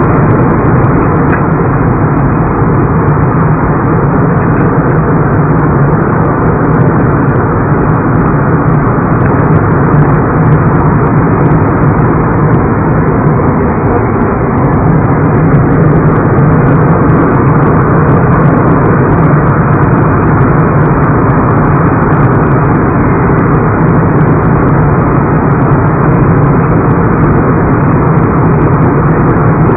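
Jet airliner engine and airflow noise heard from inside the passenger cabin: a loud, steady roar.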